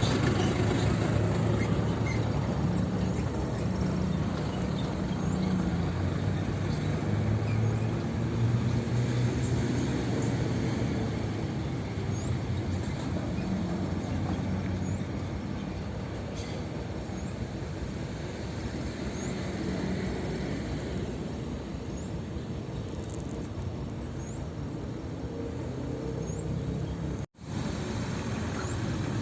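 Heavy diesel engine running steadily, its low hum slowly fading, with a brief total cutout near the end.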